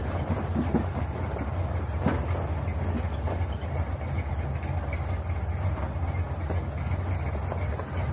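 An old first-generation Dodge Ram pickup driving, heard from inside the cab: a steady low rumble of engine and road noise with occasional light knocks and rattles.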